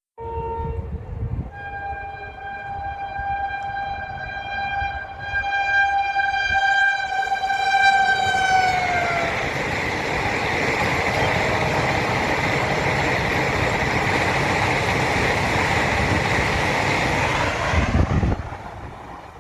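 Electric express train sounding its horn: a short toot, then a long blast of about seven seconds whose pitch drops as the train goes by. Then the steady noise of the train passing at high speed, which cuts off sharply near the end.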